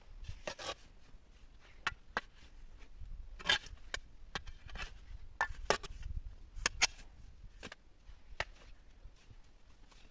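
A series of irregular sharp knocks, about a dozen over several seconds, a few much louder than the rest, over a low rumble.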